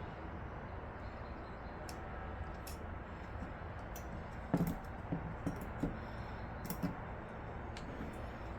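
Small sharp clicks and a cluster of soft knocks, loudest about halfway through, from computer parts such as a CPU cooler and its slim fan being handled and fitted, over a steady low hum.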